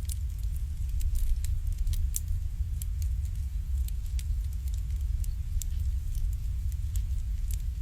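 Wood fire burning in an irori hearth, crackling with sharp, irregular pops, several a second, over a steady low rumble.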